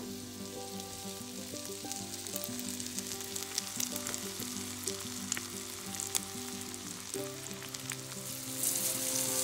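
Flour-coated morel mushrooms frying in butter in a cast-iron skillet: a steady sizzle with scattered pops and crackles, growing louder near the end. Soft background music with held notes plays underneath.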